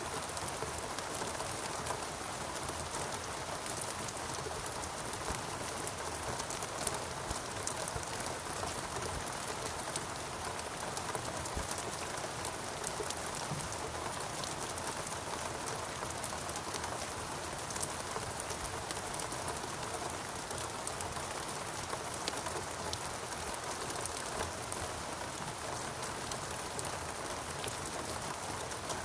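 Steady rain falling, a continuous hiss with many scattered individual drops ticking throughout.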